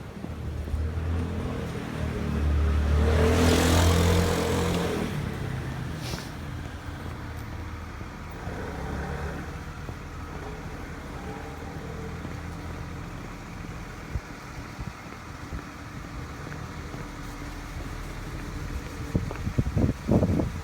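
A motor vehicle passing close by, its engine hum and tyre noise swelling a couple of seconds in and fading after about four seconds, over steady street traffic. A few sharp knocks near the end.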